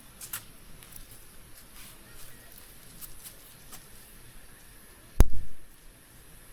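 Campfire wood crackling with scattered small pops, and one loud, low thump about five seconds in.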